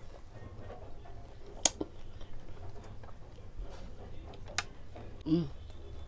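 Close-miked eating sounds: a person chewing with the mouth closed, with a few sharp mouth clicks, the loudest about two seconds in, and a brief hummed 'mm' about five seconds in.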